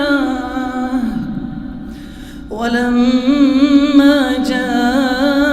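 Male Quran reciter's voice in melodic tajweed recitation, holding long drawn-out notes with ornamental wavering in pitch. The note fades out about a second in, and after a brief pause the voice comes back with another long, ornamented note.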